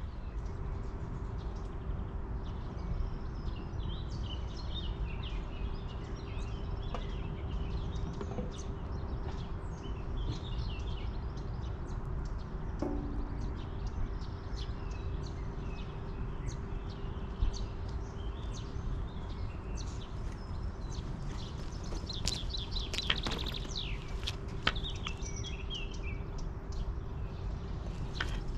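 Small birds chirping and singing, thickest in the last third, over a steady low outdoor rumble with a faint steady hum. A few sharp clicks in the second half.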